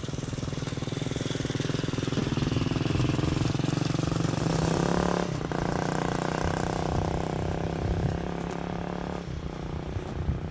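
A motor vehicle's engine running at a steady pitch. It grows louder over the first few seconds and drops away about nine seconds in.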